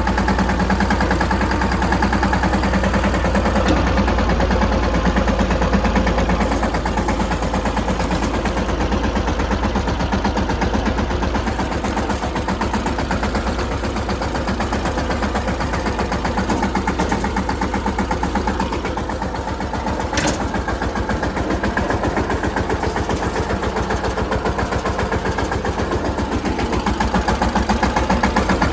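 Mahindra Yuvraj 215 tractor's single-cylinder diesel engine running steadily with an even rhythmic beat, with one brief sharp click about two-thirds of the way through.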